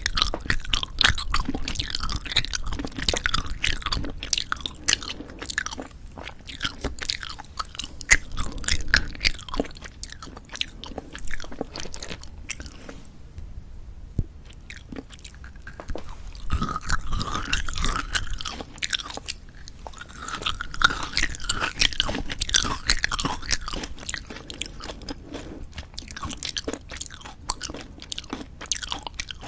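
Close-miked chewing and biting of novelty jelly candies: dense, irregular wet clicks and some crunching, easing off briefly about halfway through.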